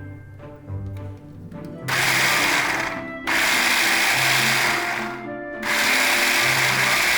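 A small electric appliance motor runs in three bursts of one to two and a half seconds each, with short pauses between them, over soft background piano music.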